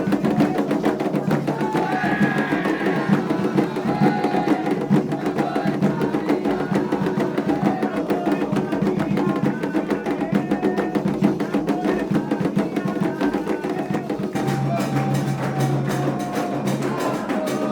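Candomblé ritual music: hand drums played in a fast, dense rhythm with voices singing a chant over them. A low held note comes in near the end.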